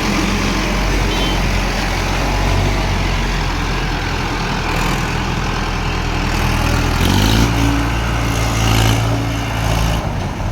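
Mahindra Arjun 555 tractor's diesel engine running steadily at idle. About seven seconds in, the engine revs up and then holds at a higher speed.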